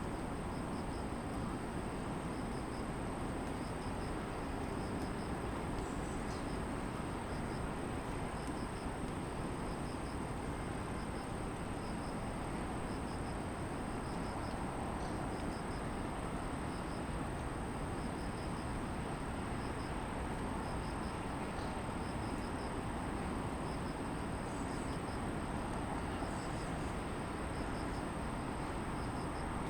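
Distant city traffic hum under insects: one insect keeps up a steady high trill while another chirps regularly about twice a second. A few short bird chirps come through now and then.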